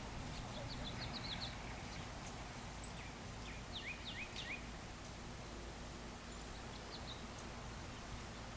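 Small birds chirping in short quick series over a steady low background noise. A brief high whistle about three seconds in is the loudest call, followed by a run of quick rising chirps.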